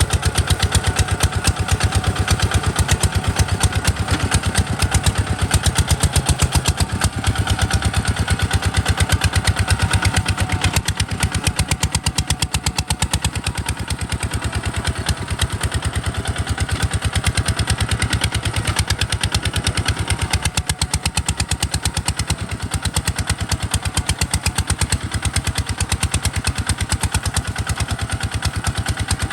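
Kubota RT140 DI single-cylinder diesel engine running steadily, its firing making a rapid, regular chugging knock.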